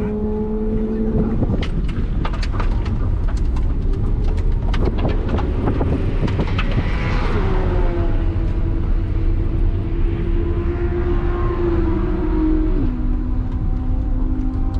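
Flat-four engine of a modified 2001 Subaru Impreza 2.5RS running hard at speed, its note dropping in pitch three times, with heavy wind buffeting on the microphone and a run of sharp clicks in the first half.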